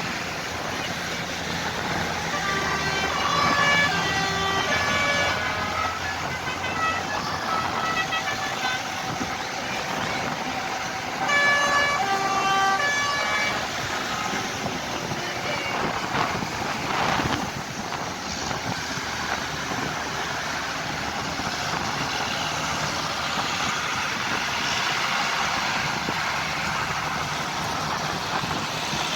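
Tractors running past with horns tooting in short spells, a few seconds in and again about eleven seconds in, over steady engine noise.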